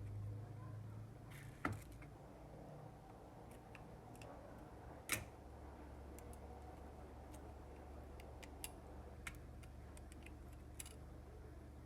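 Faint scattered clicks and taps from handling a Samsung Galaxy A03's small plastic and metal parts during disassembly, with two sharper clicks about two and five seconds in, over a low steady hum.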